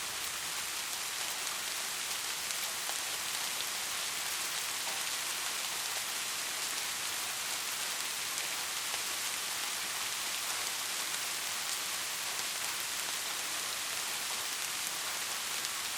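Steady rain falling: an even hiss of many drops with no change in strength, and no thunder.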